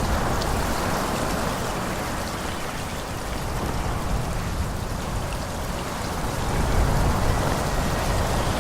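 Steady forest ambience: a constant rushing hiss over a low rumble, swelling slightly near the end.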